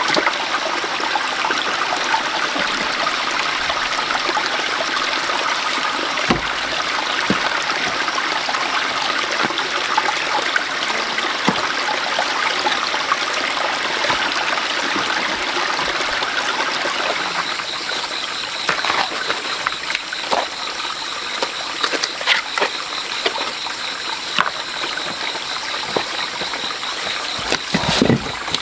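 Water running steadily, like a small stream or runoff trickle, with scattered sharp knocks. From a bit past halfway, a faint high pulsing tone joins in.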